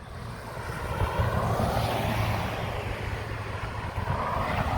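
An engine droning steadily with a low hum, growing louder about a second in.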